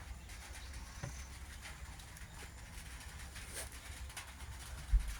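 Faint bird calls in the background over a steady low rumble, with a single short thump near the end.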